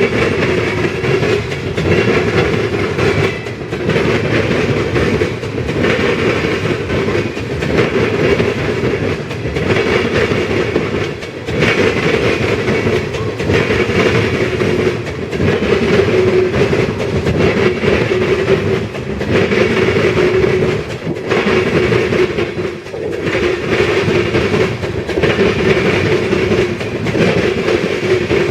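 Freight train of ethanol tank cars rolling past, steady rail and wheel noise with clickety-clack that swells and dips about every two seconds as each car goes by.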